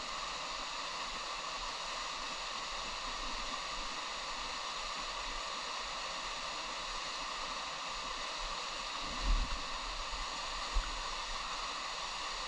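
Waterfall and mountain stream water rushing steadily. A few short, dull low bumps come about nine and eleven seconds in.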